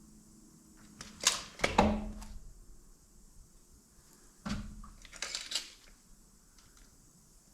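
Two short bursts of clicks and knocks from hand work on a motorcycle's front wheel and axle being shifted and measured for centering: one about a second in with a dull thud among the clicks, another about four and a half seconds in.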